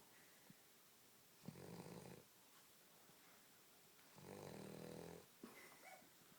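A dog snoring in its sleep: two quiet snores about two and a half seconds apart, each lasting about a second.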